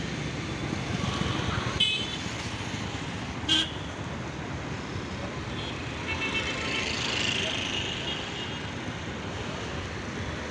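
Road traffic noise with short car horn toots, about 2 s in and again near the middle, and one sharp click.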